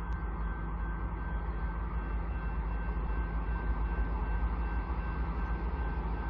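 Diesel-electric freight locomotives (a GE AC4400CWM leading two EMD SD70ACe units) running with a steady low rumble, growing slowly louder as the train approaches, with a faint steady high whine above it.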